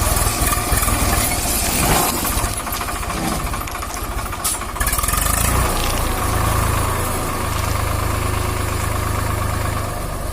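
Heavy diesel engine running with a low, fast, even pulsing beat; the rumble grows steadier a little past halfway.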